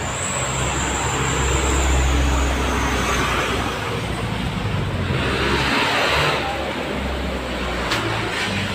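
Motor vehicle engine and road noise as a steady low rumble, with a louder swell of noise about five to six seconds in, like a vehicle passing, and a single click near the end.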